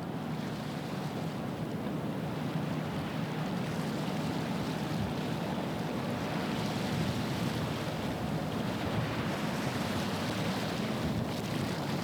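Wind buffeting the microphone over water washing along the shore, with a low steady rumble underneath.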